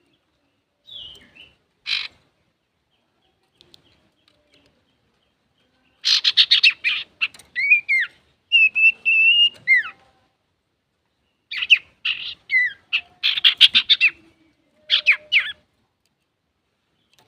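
Male common iora (cipoh) singing in bouts: fast chattering runs of notes mixed with a held clear whistle that slurs downward at its end, separated by short pauses. The song opens with two brief calls.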